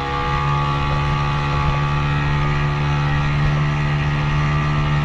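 Motorboat engine running steadily at a constant pitch, as when towing a banana boat.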